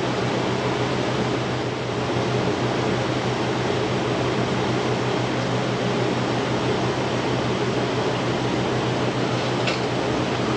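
A fan running steadily, a continuous whooshing noise with a low hum under it, and a faint tick near the end.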